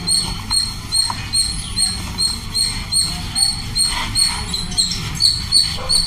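A bird chirping on and on, short high chirps at an even rate of about three a second. Under it, dry clay or dirt crumbles and sifts through the hands, with a few louder crumbles near the end.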